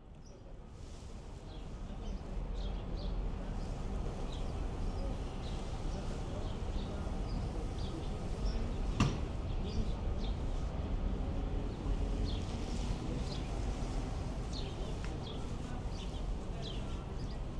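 Outdoor market ambience: a steady low rumble with many small birds chirping throughout, fading in over the first two seconds, and one sharp click about nine seconds in.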